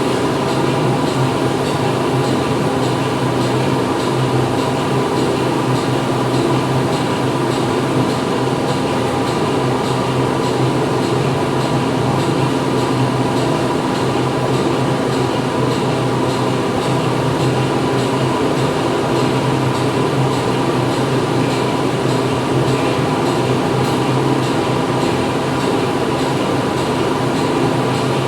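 Factory machinery running: a dense, steady mechanical din with a constant low hum through it, without separate strokes or changes.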